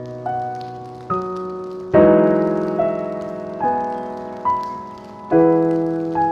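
Slow, gentle solo piano music: sustained chords under a melody of single notes, a new note struck about once a second, each ringing on and fading.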